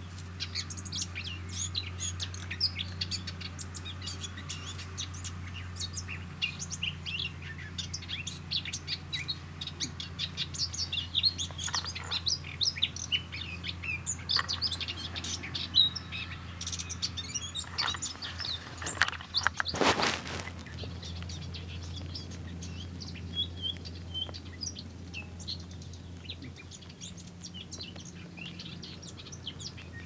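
Garden birds chirping: a dense stream of short, high chirps that thins out over the last few seconds. Two thirds of the way through comes a brief noisy whoosh, and a steady low hum runs underneath.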